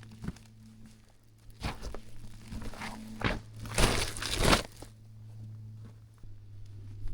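A few seconds of crunching and rustling, like steps or debris being handled, loudest near the middle, over a steady low hum.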